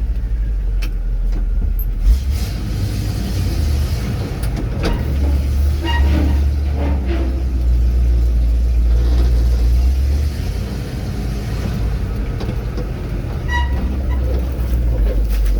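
Old truck's engine running on the road with a loud, deep rumble that swells and drops back a few times, with a few light rattles.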